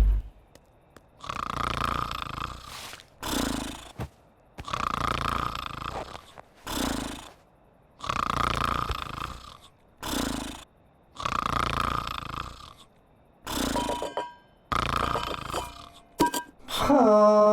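Cartoon snoring. A slow, regular rhythm of long drawn-in snores, each followed by a shorter out-breath, repeats about every three seconds. A few musical tones begin near the end.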